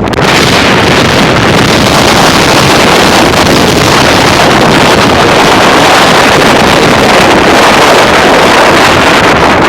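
Strong wind gusting across the microphone, a loud steady rushing with heavy buffeting rumble, swelling up sharply at the start of a gust.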